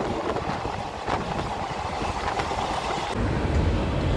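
Doon Express passenger train running on the track, a steady rumble of the coaches whose low end grows louder about three seconds in.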